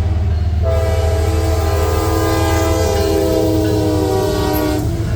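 Locomotive air horn on a CSX ES44AH leading a loaded coal train, sounding one long chord of several notes from about a second in until near the end. It is not a Nathan K5HL. A steady low rumble from the passing train runs underneath.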